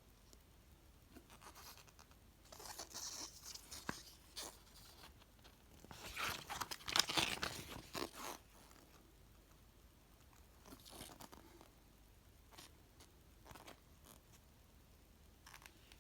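Paper rustling as the pages of a plastic model kit's instruction booklet are handled and turned, in two louder bursts with fainter rustles between.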